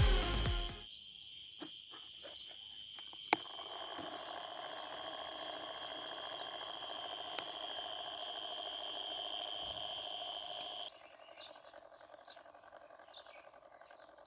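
Small DC motors of a cardboard mini helicopter spinning its rotors. A sharp click comes about three seconds in, then a faint steady buzzing whir with a high whine over it, which cuts off suddenly near the end. Faint chirps follow.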